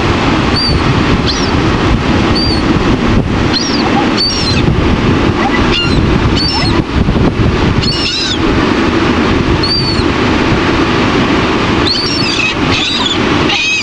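Seagulls crying over and over, short high calls from several birds, over a steady rush of surf and wind buffeting the microphone.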